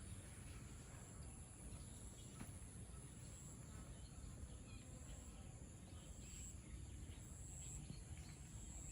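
Faint morning garden ambience: a steady high-pitched insect trill with a few faint, scattered bird chirps.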